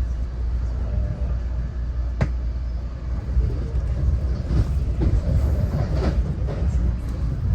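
Passenger train running, heard from inside the car: a steady low rumble, with one sharp click about two seconds in and a few softer knocks in the second half.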